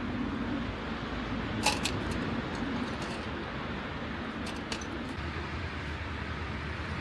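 A steady wash of rain and sea waves, with a few sharp clicks on top: the loudest about two seconds in, two fainter ones near the middle.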